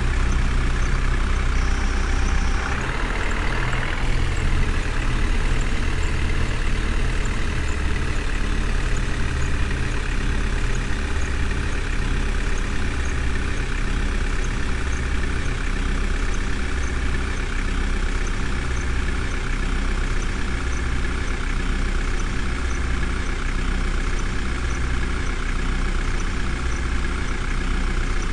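Heavy vehicle engine running steadily at idle, with a faint high tick repeating at an even pace.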